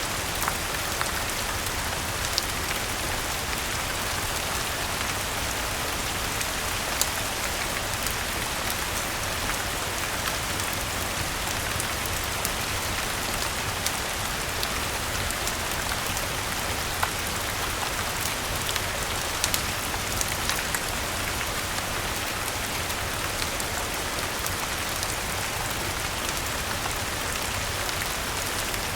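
Steady rain falling, an even hiss with scattered sharp clicks over it.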